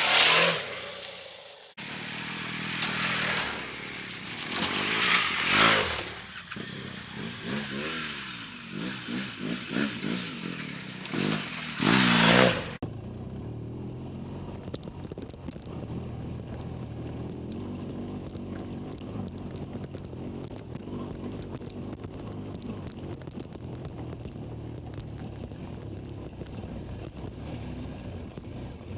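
Motorcycle engine running, with loud surges of noise and some rising and falling engine pitch in the first half. About 13 seconds in, the noise cuts off and a steady low engine drone with faint ticking continues.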